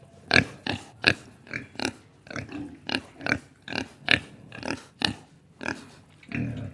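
An animal giving a rapid series of short, harsh calls, about three a second.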